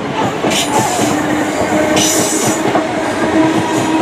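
Electric multiple-unit passenger train running through the station: steady rail rumble, with a level electric whine joining about a second in and short hissing bursts about half a second and two seconds in.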